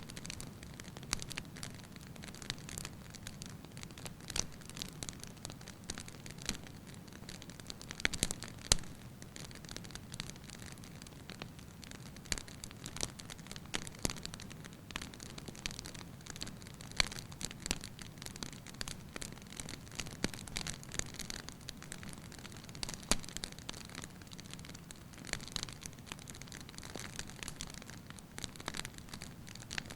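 Wood fire burning in a fireplace: a steady low rumble of flames with irregular crackles and the occasional louder pop from the firewood.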